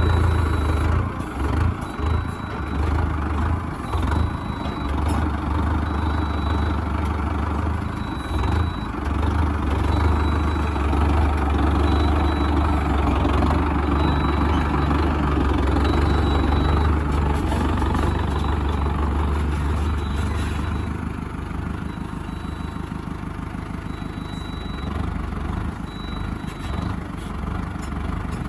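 Diesel tractor engine running under varying load, with uneven dips and clunks in the first third and a lower, steadier run in the last quarter. A faint high-pitched tone pulses on and off throughout.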